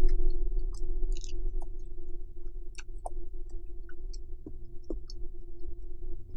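Close-up eating sounds: scattered wet clicks and smacks of chewing noodles, over a steady electrical hum.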